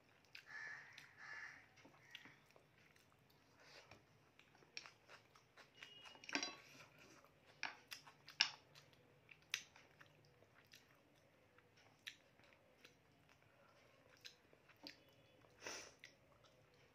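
Close-up mouth sounds of eating rice and mutton curry by hand: soft chewing, lip smacks and scattered clicks, the sharpest a little past six seconds and about eight and a half seconds in.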